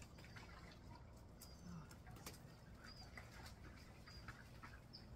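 Near silence with faint, scattered bird chirps in the background: short high notes every second or so.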